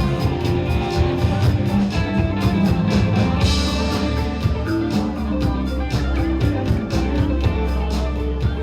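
Rock music played by a band: guitar over bass and drums, with a steady beat.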